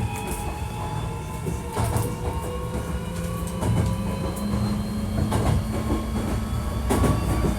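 Hankyu 1300 series commuter train running, heard from inside the car: the traction motor whine rises slowly in pitch as the train gathers speed, over a steady low rumble, with the wheels clicking over rail joints about every two seconds. The car is labelled as one with an unusual noise.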